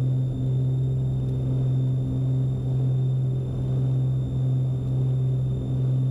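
Cabin drone of a Beechcraft Baron B55's twin piston engines and propellers in the climb after takeoff: a steady low hum that swells and dips slightly a little under once a second.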